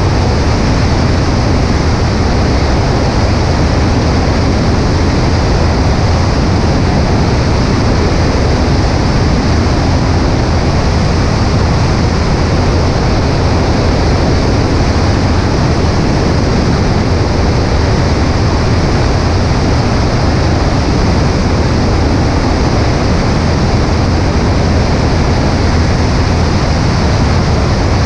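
Cessna 140A light plane in steady flight: the engine and propeller drone without change, mixed with heavy wind rush over a microphone mounted on the right wing.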